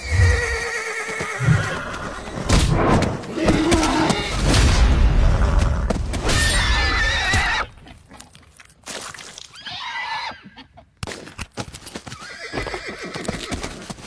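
Wild mustang stallions fighting, squealing and screaming at each other several times, with dull thuds of hooves and bodies in the first half.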